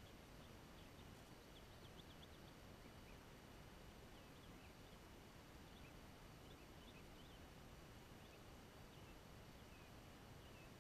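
Near silence: faint open-air background with distant birds giving short, high chirps now and then.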